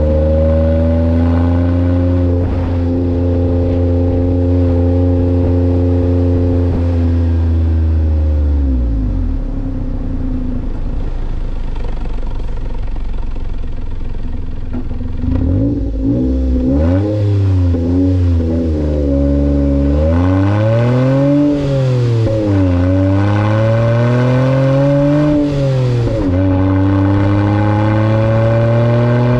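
Kei truck's 660 cc three-cylinder engine through a new aftermarket muffler: revs held steady, then dropping sharply about eight seconds in. After a lower stretch it is blipped up and down several times, and near the end the revs climb steadily again.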